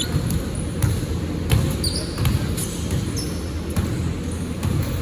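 Basketball bouncing on a court floor in a game, repeated knocks with short high squeaks among them, over a steady low hall rumble.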